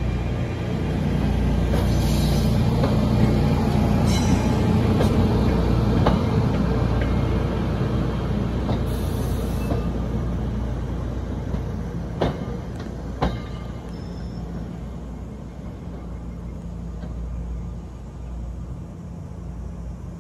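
NJ Transit Arrow III electric multiple unit rolling past at close range: a heavy rumble of wheels and running gear that is loudest in the first few seconds and eases off as the last car clears. Two sharp clanks come about twelve and thirteen seconds in.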